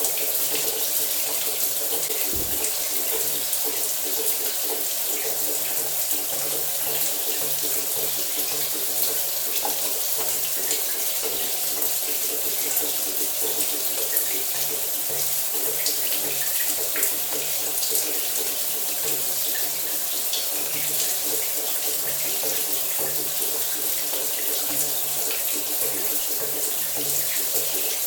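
Shower spray running steadily, water hissing and splashing onto a hard surface, with faint scattered droplet ticks.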